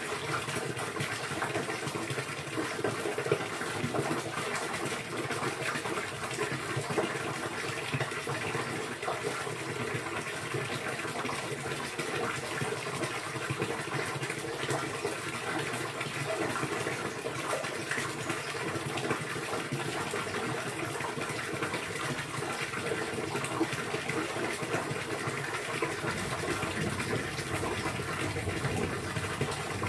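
Steady running, splashing water.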